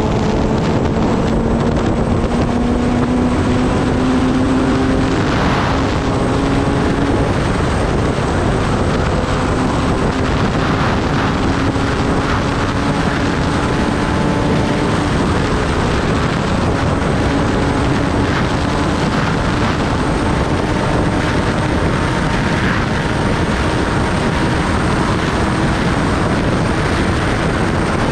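Kawasaki Ninja ZX-10R's inline-four engine running under way, its pitch climbing slowly and evenly, with a heavy steady rush of wind noise.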